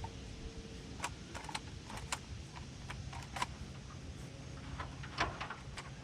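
Scattered sharp clicks and small knocks of hand work with a clamp on a timber header, over a steady low engine hum.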